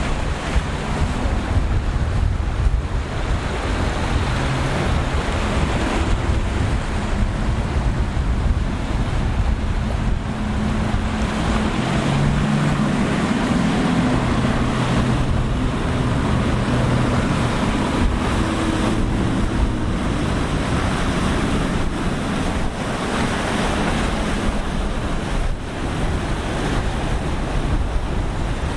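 Waves breaking and wind buffeting the microphone, with the drone of boat engines motoring through rough inlet water, the engine tone clearest about halfway through.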